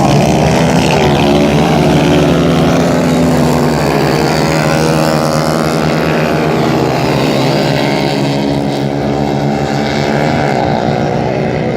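Several 150 cc racing motorcycle engines running hard at once, their pitches rising and falling against each other as the pack races round the dirt track.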